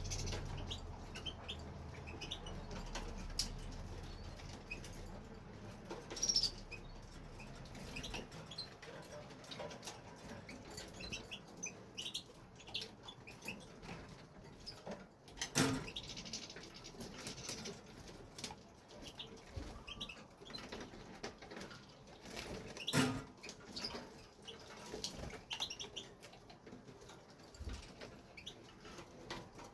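Aviary birds, European goldfinch among them, giving short scattered chirps, with wing flutters. Two louder knocks come about halfway through and about three-quarters through.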